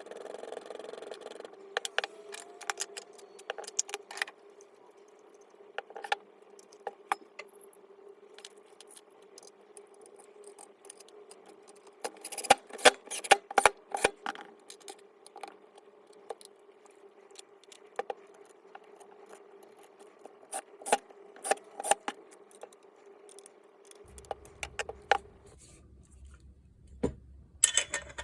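Irregular clicks and light metallic clinks of small parts being handled during the teardown of a Makita GA402D disc grinder, with a brief flurry in the middle and another near the end, over a faint steady hum that stops near the end.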